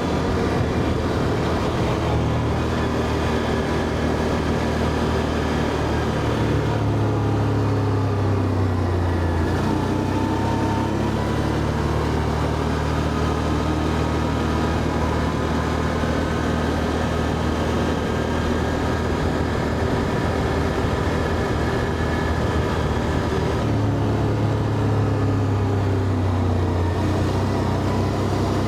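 ATV engine running while riding, a steady drone whose pitch drops and climbs again about a third of the way in, and shifts once more near the end as speed changes.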